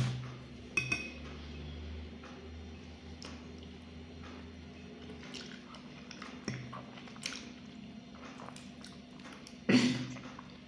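Eating sounds: cutlery clicking against a dish, with soft chewing. There are two louder knocks, one at the start and one near the end.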